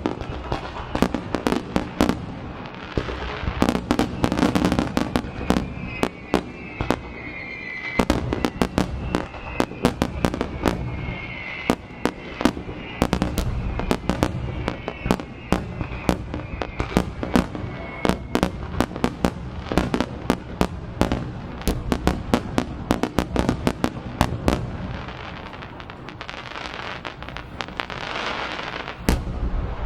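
A fireworks barrage, with dense volleys of shells bursting in quick succession and crackling, and a few whistling tones sliding downward. The bangs thin out near the end, then one heavy bang comes just before it stops.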